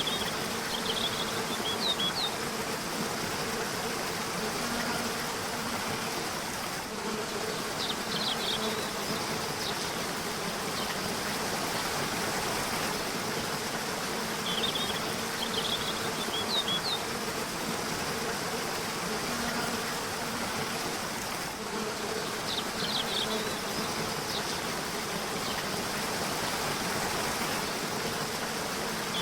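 River water rushing steadily, with small birds giving short clusters of high chirps about every seven seconds and a faint insect-like buzz underneath.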